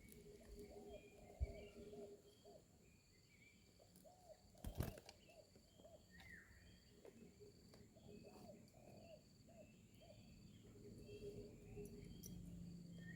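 Faint cooing of spotted doves: soft, arched, low notes repeated in short phrases. A steady high insect drone runs underneath, and two soft knocks come about a second and a half and five seconds in.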